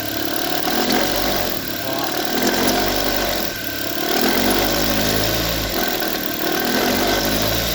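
Chevrolet Prisma engine revved up from idle and let back down, twice, with a strong noise that sounds like a compressor. The noise comes from the stretch-fit (elastic) alternator belt vibrating badly, a sign of a worn belt and tensioner pulley.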